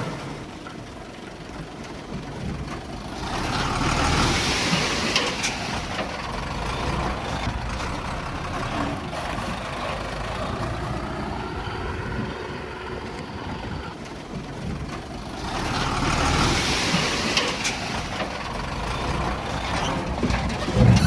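Diesel heavy earthmoving machinery working, its engine running steadily, with two swells of louder noise, one about three seconds in and another about fifteen seconds in.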